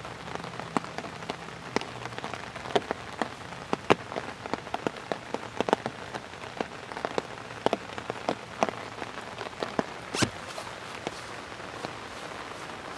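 Steady rain hiss with heavy drops landing on an umbrella as irregular sharp taps, several a second, one louder hit about ten seconds in; the taps thin out near the end.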